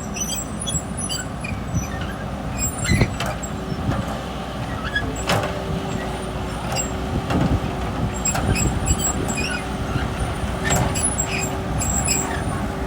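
Heavy vehicle engine running steadily, with several sharp knocks or clanks about 3, 5 and 7½ seconds in.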